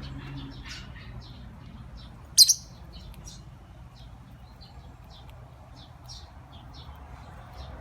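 Lovebird chirping: many short, high chirps scattered throughout, with one much louder sharp double sound about two and a half seconds in.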